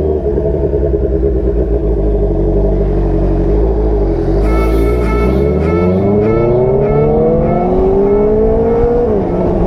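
Honda CBR650R's inline-four engine pulling away and accelerating. Its pitch rises steadily over several seconds, then drops sharply near the end as it shifts up a gear.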